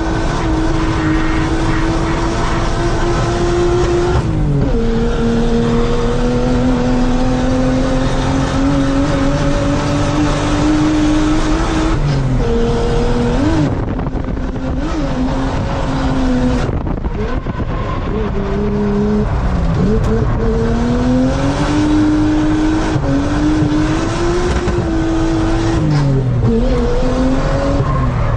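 Nissan R33 Skyline's straight-six engine held at high revs around a track, heard from inside the cabin, with tyre noise under it. The revs drop sharply about four seconds in, then climb slowly, and dip and rise again several times through the corners.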